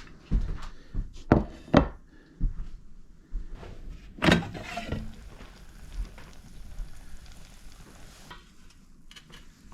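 Steaks sizzling in a frying pan, with several sharp knocks and clatter of the pan and utensils in the first half, then only the sizzle.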